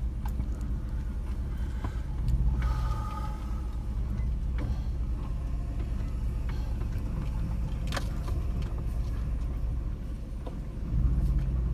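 A car's engine and road noise as a steady low rumble, growing louder briefly about two seconds in and again near the end.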